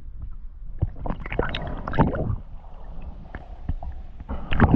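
Water sloshing and slapping against a small boat's hull over a steady low rumble, with a few scattered knocks, and louder swells of sloshing about a second in and again near the end.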